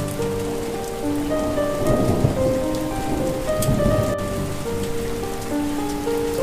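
Steady rain falling, with a rumble of thunder from about two seconds in to about four seconds in, over a soft melody of slow held notes.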